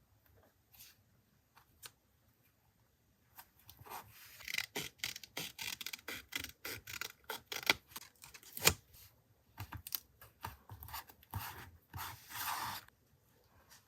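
Paper collage work: a quick run of crisp snips, scrapes and rustles of paper, with scissors cutting paper the most likely source. It starts about three seconds in after a near-quiet stretch and stops just before the end.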